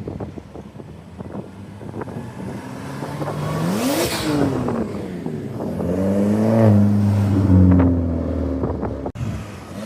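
Car engine revving: it climbs in pitch to a peak about four seconds in and drops back, then is held at higher revs for about two seconds, louder. It fades out near the end.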